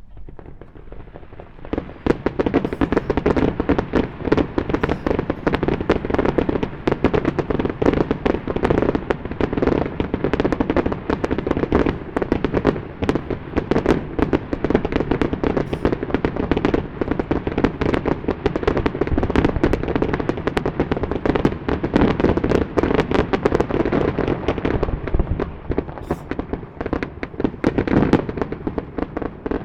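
Fireworks display launched over the sea: a dense, continuous barrage of shell bursts and crackling reports with echoing booms, starting about two seconds in and going on without a pause.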